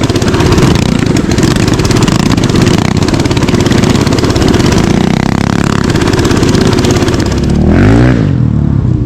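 Small mini bike engine running loudly and close by. Near the end its pitch drops and then climbs again as the engine slows and revs back up.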